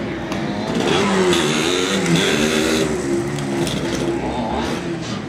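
Two-stroke MZ motorcycle engine revving, its pitch falling and rising several times.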